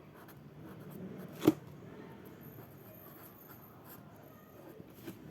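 Faint handwriting: a pen scratching and rubbing on a writing surface, with one sharp tap about a second and a half in.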